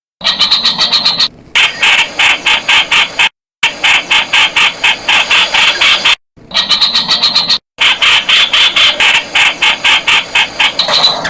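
Streak-eared bulbul calling: fast runs of short harsh notes, about five a second, broken several times by sudden silent gaps.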